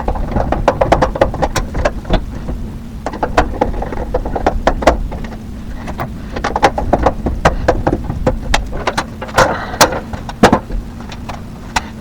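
Rapid, irregular clicks and knocks, some in quick clusters, over a steady low hum.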